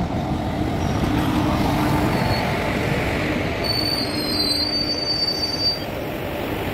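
Passenger train's coaches rolling past alongside the platform as the train pulls in, with a steady rumble of wheels on rails. Thin high squeals from the wheels join from about three and a half seconds in and fade out before the end.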